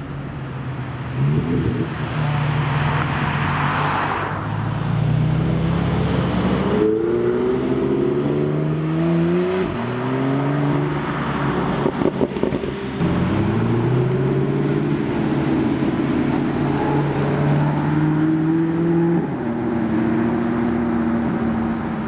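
Supercar engine running under load, its pitch climbing in several runs that each end in a sudden drop, then settling to a steady note near the end.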